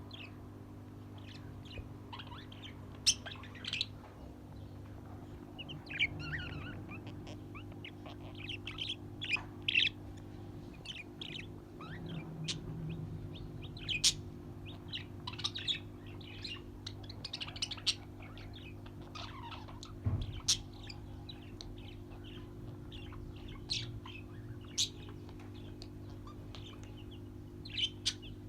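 Pet birds chirping and tweeting in many short, sharp calls scattered irregularly, over a steady low hum.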